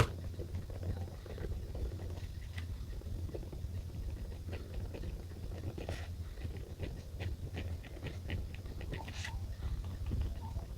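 Quiet desk journaling sounds: a pen and paper giving many small taps, clicks and short scratches, busiest in the second half, over a low steady hum.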